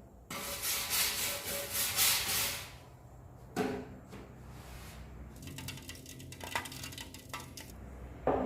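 Metal clanking and rattling, with a harsh, crackly hiss over the first couple of seconds and a few sharp knocks later on.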